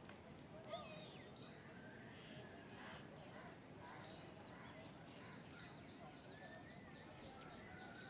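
Quiet outdoor ambience with scattered faint chirps and short calls of birds.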